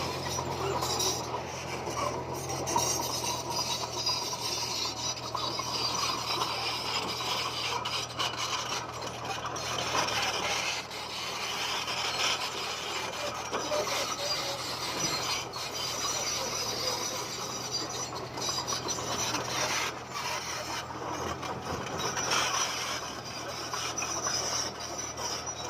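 Komatsu bulldozer pushing a load of stone, the rock grinding and scraping steadily under the blade and tracks over a low engine hum.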